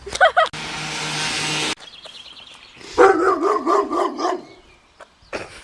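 A dog barking sharply a few times, then a drawn-out wavering call with its pitch wobbling up and down. A steady hiss runs for about a second between them.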